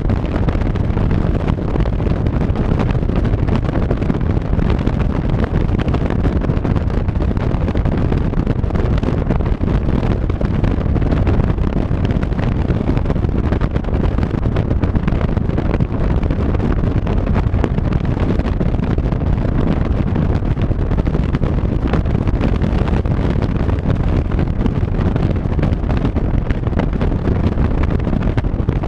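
Steady wind buffeting on the microphone over the running and road noise of a moving vehicle at cruising speed.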